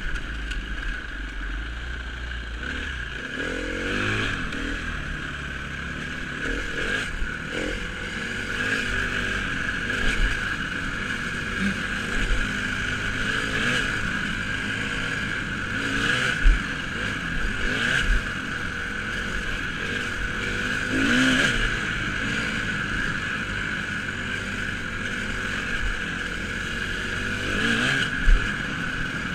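Dirt bike engine running and revving up and down over and over as the bike rides the track, with a couple of sharp knocks.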